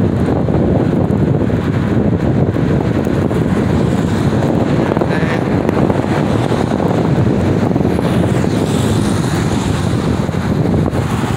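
Wind buffeting the microphone: a loud, steady, rumbling noise with no clear pitch.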